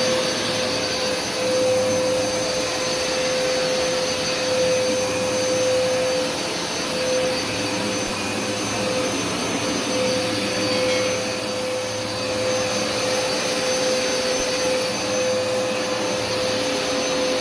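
Hoover Smartwash carpet washer running steadily, its suction motor giving a constant drone with a steady mid-pitched whine and a faint high whistle.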